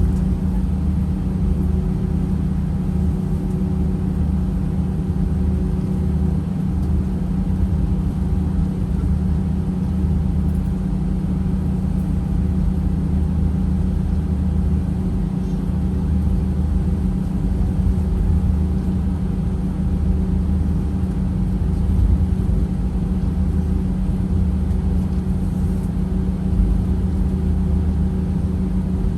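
Steady hum and low rumble of a jet airliner heard from inside the passenger cabin, with a constant droning tone.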